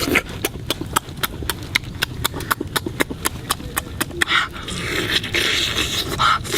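Campfire crackling and popping: many sharp, irregular snaps several times a second, with a denser hissing rustle from about four seconds in.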